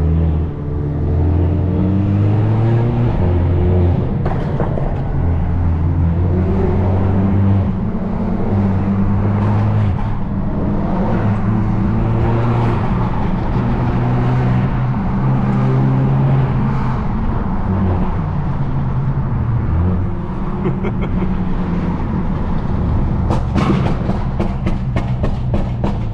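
Music with a steady bass line playing over a car's engine and road noise, then a quick series of sharp exhaust pops near the end, loud enough to be called "gunshots".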